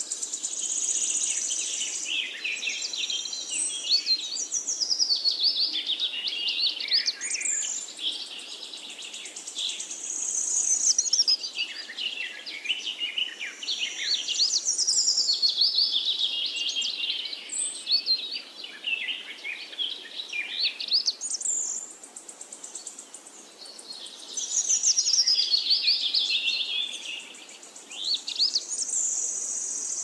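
Songbird singing: long phrases of rapid high notes that rise and fall, repeated with short pauses between phrases.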